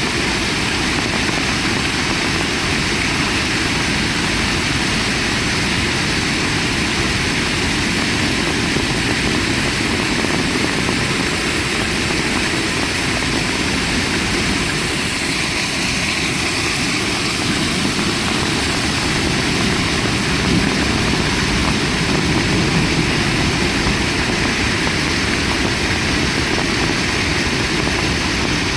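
Heavy rain falling steadily, a loud, even hiss and patter with no letup.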